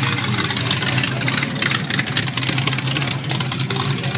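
Car engine idling with a low, steady rumble.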